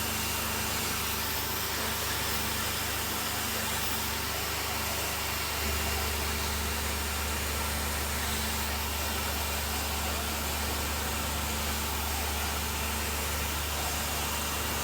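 Pressure washer running steadily: a motor hum under the hiss of the spray, the hum getting louder about six seconds in.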